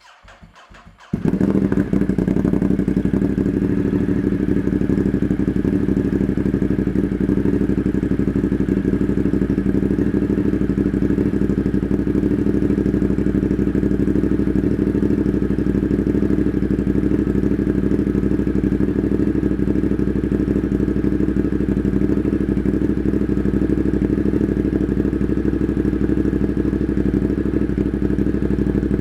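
Ducati Monster's V-twin engine with an Austin Racing slip-on exhaust, cold-started about a second in, then idling steadily.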